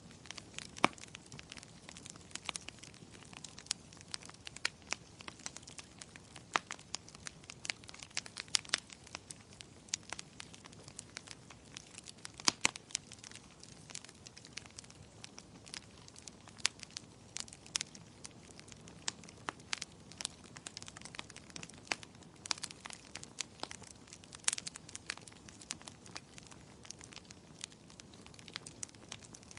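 Wood fire crackling in a fireplace: a steady low hiss with frequent irregular sharp snaps and pops, a few louder ones standing out.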